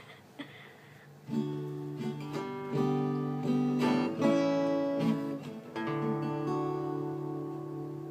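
Acoustic guitar strumming chords as a song's introduction, starting about a second in after a few faint clicks.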